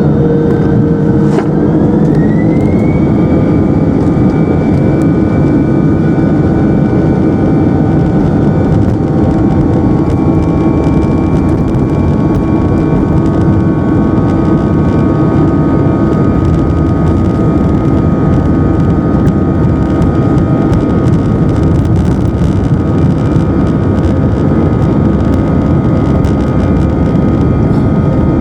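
Airbus A319 twin jet engines heard from inside the cabin: a loud, steady rumble with a whine that rises in pitch over the first few seconds and then holds level, the engines spooling up to takeoff power.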